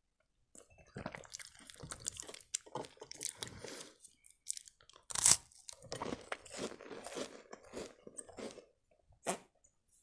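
Close-miked crunching and chewing of a crisp cream-filled sandwich biscuit: irregular crackly bites and chews, with a short pause just before the middle and the loudest crunch a little after it.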